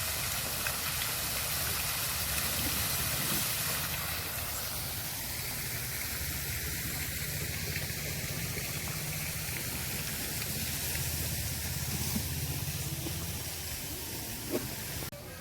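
Steady hissing, rushing outdoor noise with a low rumble beneath, without speech.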